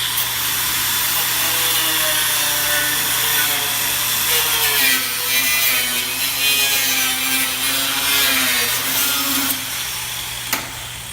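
Power tool, most likely an angle grinder, cutting through a metal wheelchair part: a loud, steady cutting hiss over a motor whine whose pitch wavers as the tool is pushed into the cut. It stops near the end, followed by a sharp click.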